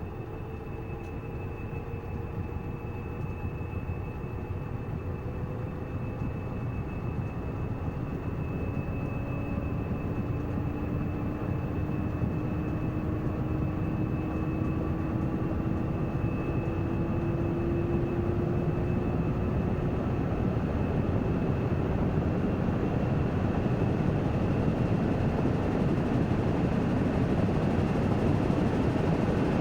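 Washing machine in its spin cycle, the drum speeding up: a steady rushing hum that grows gradually louder, with a faint motor whine slowly rising in pitch and a thin steady high tone above it.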